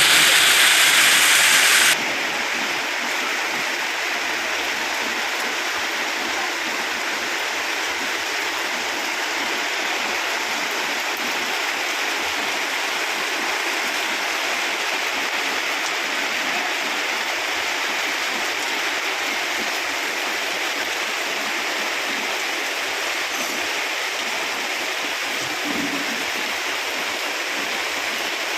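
Torrential rain and rushing water, a steady hiss with no pauses. It is louder and harsher for the first two seconds, then drops suddenly to a lower, even level.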